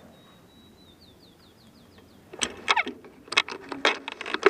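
A bird sings faintly: a thin held whistle, then a quick run of about six down-slurred high notes. From about two seconds in, a louder series of sharp knocks and scuffs takes over.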